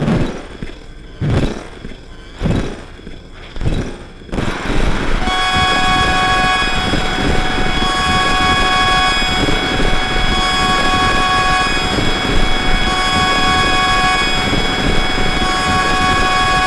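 Electronic noise and drone music: a few irregular swells of noise, then about four seconds in a dense, steady wall of noise with several sustained high tones over it, one of them pulsing on and off every couple of seconds.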